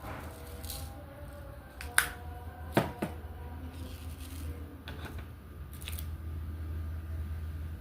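Light clicks and taps of diamond painting work: a drill pen picking up small diamond drills and pressing them onto the canvas, with two sharper taps about two and three seconds in, over a steady low hum.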